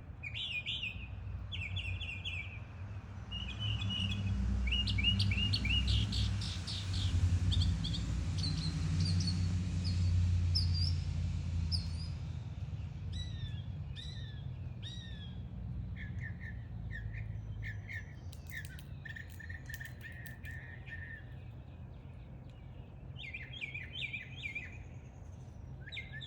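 Backyard songbirds singing and chirping in repeated short phrases, a northern mockingbird and a northern cardinal among them. A few seconds in, a rushing noise with a low rumble swells for several seconds, then fades.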